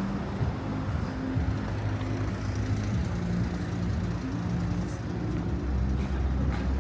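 A nearby motor vehicle's engine running with a low, steady hum that shifts in pitch a few times, over the background noise of city traffic.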